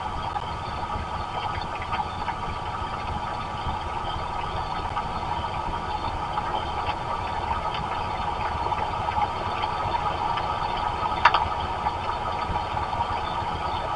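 Steady rain picked up by an outdoor camera microphone: a dense hiss full of small ticks, with one sharper tick about eleven seconds in.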